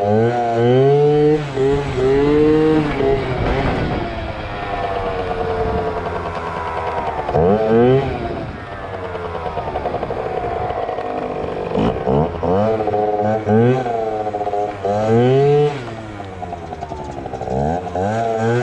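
Yamaha ZR Evo two-stroke scooter engine revved in repeated sharp bursts, its pitch climbing quickly and dropping back seven or eight times, with steadier lower running between. These are throttle blips used to pop the front wheel up for a wheelie.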